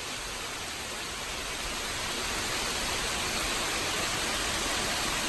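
Heavy rain falling as a steady hiss, growing a little louder about two seconds in.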